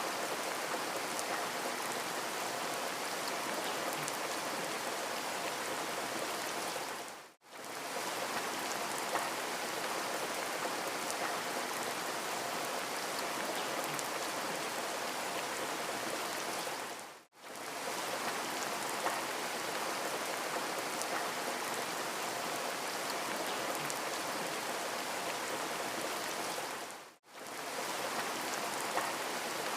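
Steady rain falling, an even hiss with small drop ticks. It fades out briefly about every ten seconds, where a short recording is looped.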